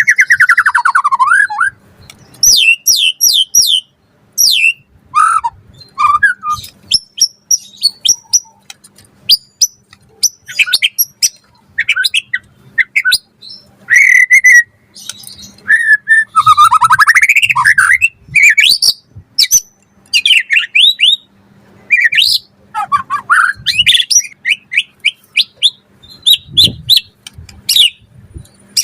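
White-rumped shama (murai batu) singing prolifically: short phrases of quick rising and falling whistled notes, rapid trills and chattering notes, separated by brief pauses.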